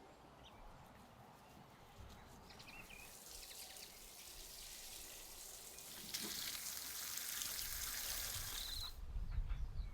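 Water pouring: a hiss that builds from about three seconds in, gets louder around six seconds and stops abruptly near the end. A few faint bird chirps sound over it.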